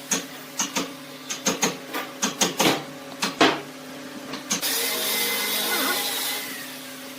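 Wood lathe running with a steady motor hum, overlaid by a quick run of sharp clicks and knocks in the first half, then a steady hiss for about two seconds.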